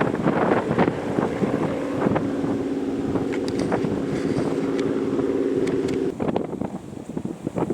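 Wind buffeting the microphone in gusts, over a steady low two-tone hum that stops abruptly about six seconds in.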